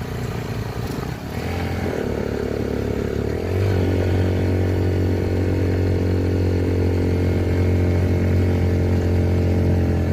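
Motorcycle engine running under way. Its pitch climbs over the first few seconds, then it settles into a steady, louder run at speed.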